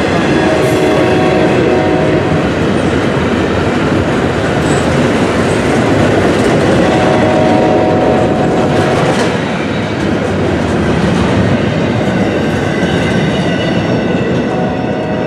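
Train cars rolling past close by: a steady, loud rumble of wheels on rail with clickety-clack over the rail joints, and a few brief steady tones from the wheels now and then.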